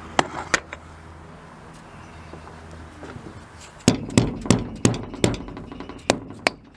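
Hammer strikes on the metal of a Blackmer TDX2D vane pump being knocked apart. Two sharp raps come near the start, then about four seconds in a run of about eight blows, roughly three a second, each with a short metallic ring.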